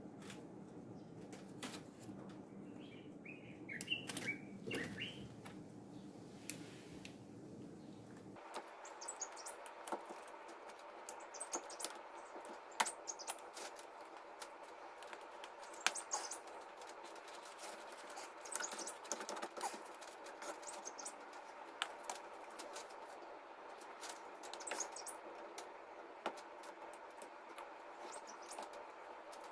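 Faint scattered clicks and taps of hand work on the supercharger's front coolant pipe and hoses in an engine bay, with a few short squeaks early on, over a low background hum that drops away about eight seconds in.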